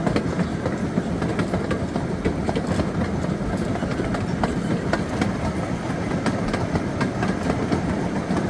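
All-electric park excursion train rolling along its track: a steady rumble with wheels clicking irregularly over the rail joints.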